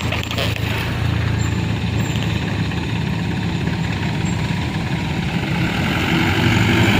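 A heavy vehicle's engine running steadily at low revs, growing a little louder near the end.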